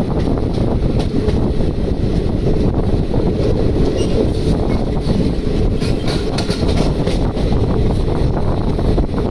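Passenger train running on the track, a steady loud rumble of the coach and wheels on the rails, with wind on the microphone.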